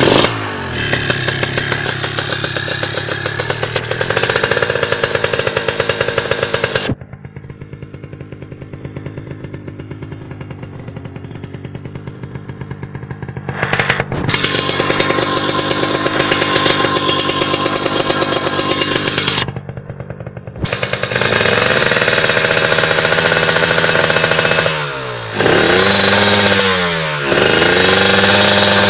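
Kawasaki Ninja motorcycle engine through a big-volume aftermarket racing exhaust, revved and held for several seconds, then dropping to a lower, quieter run for several seconds before it is revved hard again. Near the end come quick throttle blips, the pitch falling and rising with each one.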